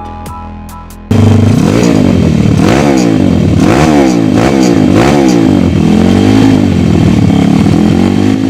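Electronic music cuts off about a second in to a pit bike's YX 140cc single-cylinder four-stroke engine running loudly, revved up and down over and over, its pitch rising and falling roughly once a second.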